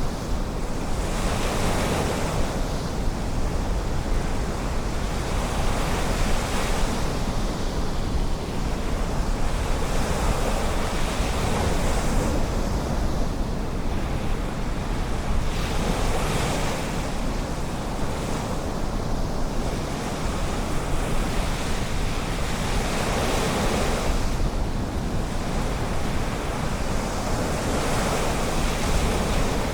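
Ocean waves breaking and washing onto the beach, surging every few seconds, with some wind buffeting the microphone.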